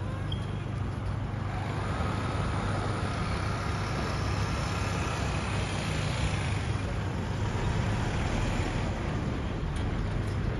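Road traffic: a vehicle engine running with tyre and road noise, swelling in the middle as if a vehicle passes close by.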